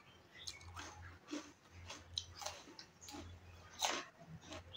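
Close-miked chewing and wet lip-smacking mouth sounds of a person eating rice and curry by hand: irregular short smacks and clicks, a sharper one just before four seconds in, over a faint low steady hum.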